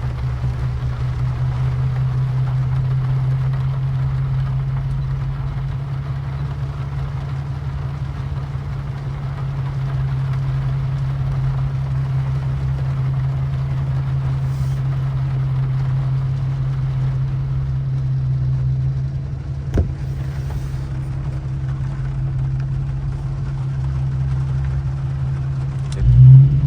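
Infiniti Q50 driving on a wet road: a steady low drone of engine and road noise with a hiss of tyres on wet pavement. There is a single sharp click about twenty seconds in and a short, loud surge just before the end.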